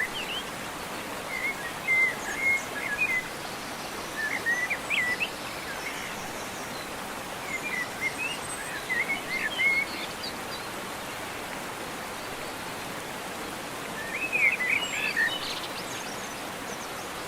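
Birds chirping in quick, twittering phrases that come in four short spells, the last and loudest near the end, over a steady rushing hiss.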